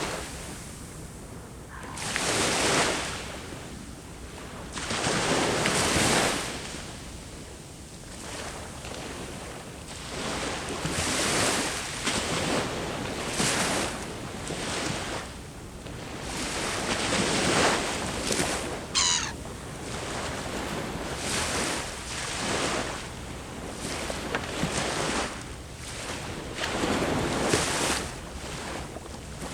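Sea waves breaking and washing up the shore, swelling and fading every few seconds. About two thirds of the way through, a bird gives a single short call that falls steeply in pitch.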